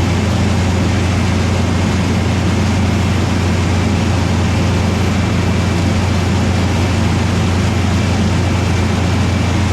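Oxbo 8430 ear corn picker's engine running at a steady speed, a loud constant low drone.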